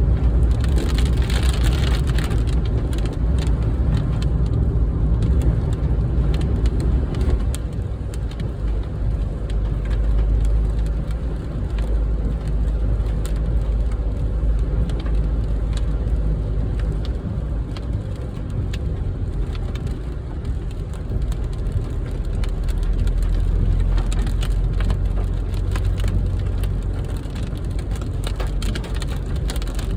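Heavy rain pelting a car, dense sharp drop impacts over a steady low rumble from the vehicle.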